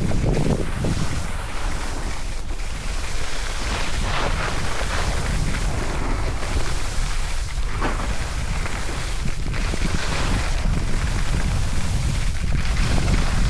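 Wind buffeting the microphone while skiing downhill, with a swish of skis turning on snow every couple of seconds.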